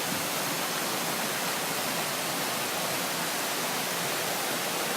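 Steady rushing of water from a waterfall, an even hiss that does not change.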